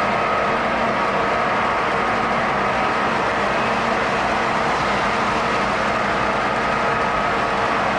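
O-gauge model train running on the layout's track: a steady rolling rumble with a few steady hum tones and no breaks.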